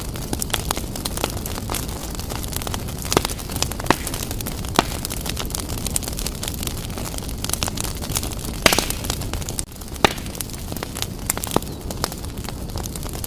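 Wood fire blazing in a fireplace: a steady low roar of flames with frequent crackles and sharp pops, a louder pop a little before the end.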